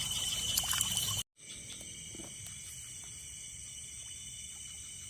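Steady chorus of crickets and other night insects, a continuous high trilling. It breaks off for a moment a little over a second in, then carries on quieter.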